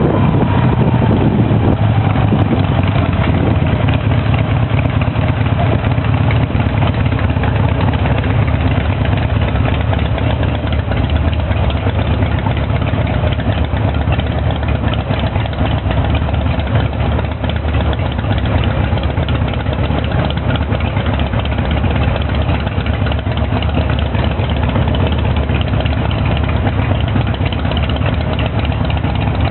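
Harley-Davidson V-twin motorcycle engine running steadily, with a falling tone in the first couple of seconds.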